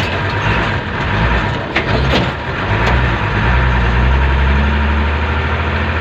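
Motor vehicle engine running with a steady low hum and road noise, growing steadier and louder about halfway through, with a few brief sharp ticks a couple of seconds in.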